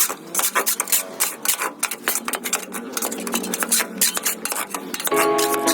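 Quick repeated scraping strokes against a hard surface, several a second, like scrubbing or rasping. Music begins near the end.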